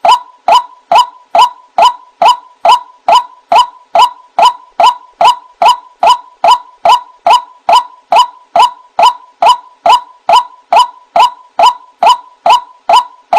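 White-breasted waterhen (ruak-ruak) call, a monotonous 'kruak-kruak' note repeated steadily at about two to three a second without a break, played as a bird-trapping lure call.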